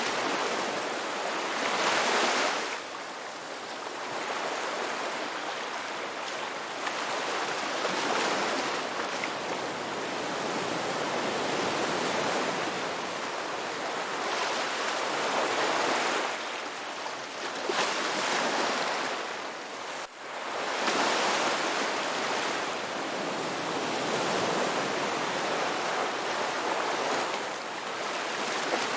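Ocean waves breaking and washing on a beach, a steady rush of surf that swells every few seconds, with a brief sudden drop about two-thirds of the way in.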